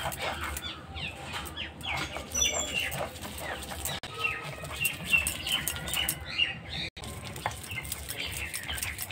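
Small birds chirping repeatedly, with scattered clicks and scrapes from soaked urad dal being ground.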